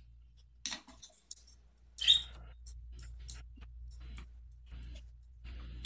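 A parrot making scattered soft beak and tongue clicks, with a short high chirp about two seconds in, over a steady low hum.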